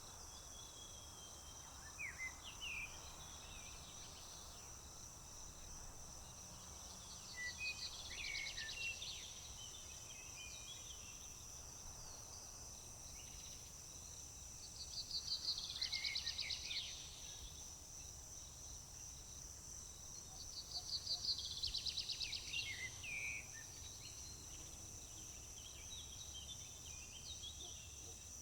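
A steady high insect drone, crickets or similar, runs throughout. Over it a songbird sings the same rapid trilled song three times, about six seconds apart, along with scattered short chirps from other birds.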